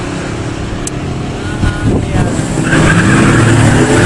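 A 1966 Chevelle SS 396 and a 1965 Pontiac 2+2 421, both big-block V8 muscle cars, launching off the drag-strip line side by side. Their engines get much louder about two and a half seconds in as they accelerate away.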